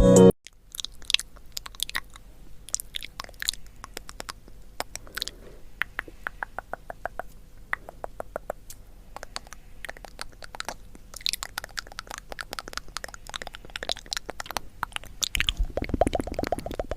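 Close-up crisp crackling and clicking: scattered sharp ticks that turn into a denser, fuller crackle about fifteen seconds in.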